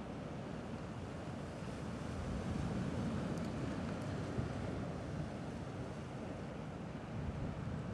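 Gentle sea waves washing against a rocky shore, a steady wash that swells slightly a couple of seconds in.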